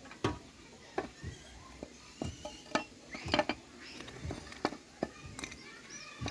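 Irregular light clicks and metallic taps, about two a second, like small metal tools being handled and set down.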